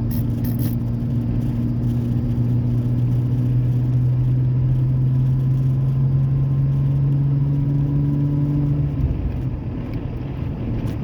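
Muffler-deleted exhaust of a 2003 Ford Ranger's 4.0L V6, with its catalytic converters still in place, giving a steady deep drone while the truck is driven at a constant engine speed. The drone eases off about nine seconds in.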